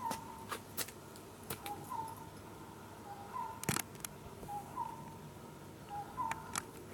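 A bird repeating a short two-note call, a lower note followed by a slightly higher one, about every second and a half, with scattered sharp clicks.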